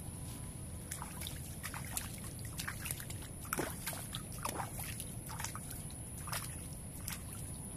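Water sloshing and dripping, with many small splashes and ticks at irregular times over a steady low background noise.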